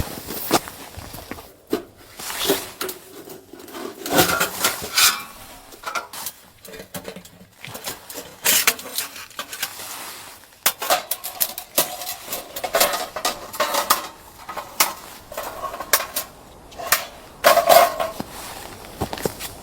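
Pots, dishes and utensils being handled, with irregular clinks and knocks, some ringing briefly.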